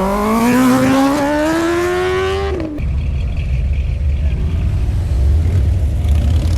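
A vehicle engine accelerating hard, its pitch climbing steadily for about two and a half seconds, then cutting off abruptly to a steady low rumble.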